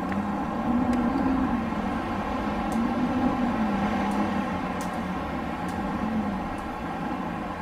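Wind blowing steadily, with a low moaning tone that rises and falls in pitch a couple of times.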